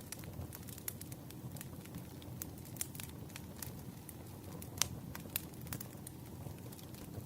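Wood fire crackling: a low steady rumble of burning logs with irregular sharp pops and snaps, one louder pop a little before five seconds in.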